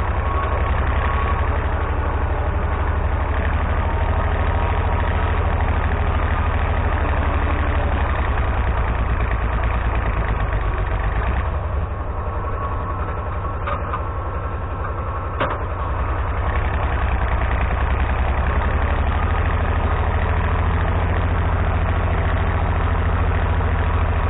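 Galion 503 grader's UD-236 diesel engine idling steadily. About halfway through it drops lower and quieter for a few seconds, with two sharp clicks, then comes back up to its earlier idle.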